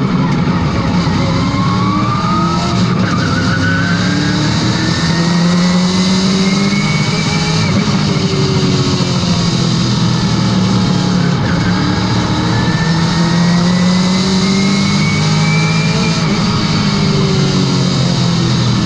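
Late model race car's V8 engine running hard at speed. Its pitch rises steadily as it accelerates, drops off as it lifts, and does this twice, like a car going down a straightaway and easing into a turn.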